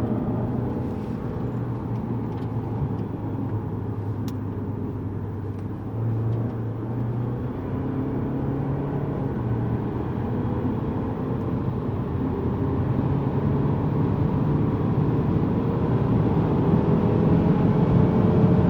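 Lexus GS200t's 2.0-litre turbocharged four-cylinder engine running under way, heard from inside the cabin over tyre and road noise. The engine note climbs slowly and grows a little louder through the second half as the car gathers speed.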